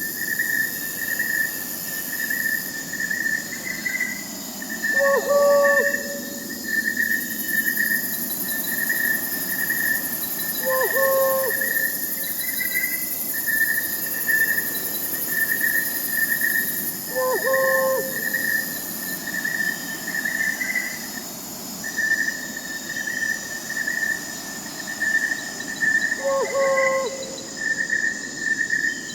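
Crickets chirping in a steady fast pulsed trill, with an owl hooting four times, about six seconds apart.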